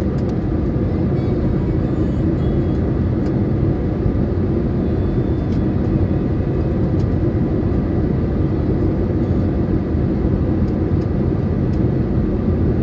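Cabin noise of an Airbus A320neo heard from a window seat: an even, deep roar from its CFM LEAP-1A engines and the airflow, with a faint steady high tone above it.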